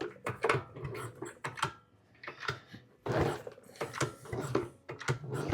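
Honda Z50 mini bike's 49cc four-stroke single being turned over by working the kick-start lever by hand: repeated clicks and short mechanical strokes in bursts, with a pause about two seconds in. The engine does not fire yet.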